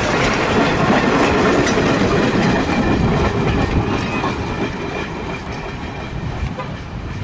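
A train running by on the rails, its sound fading gradually over the last few seconds as it moves away.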